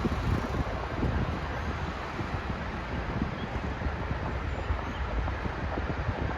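Wind buffeting the microphone over the low rumble of a hi-rail maintenance truck running along the track.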